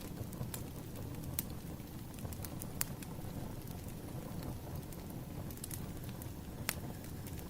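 Wood fire burning: a steady low rumble with scattered sharp crackles and snaps at irregular intervals, the loudest snap near the end.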